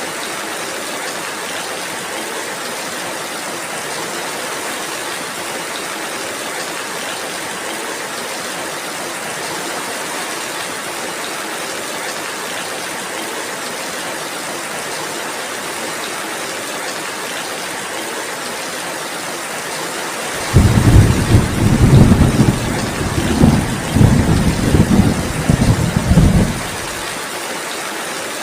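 Steady rainfall. About two-thirds of the way through, a loud rolling rumble of thunder starts suddenly, swells and fades in waves for about six seconds, then stops, leaving the rain.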